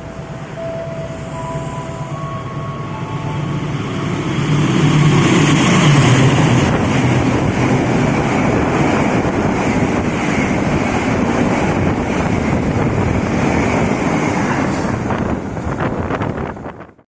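KRL Commuter Line electric train passing: a rumble of wheels on the rails builds over the first five seconds, then holds steady until it cuts off abruptly near the end. A faint high whine that steps up in pitch is heard over the first few seconds.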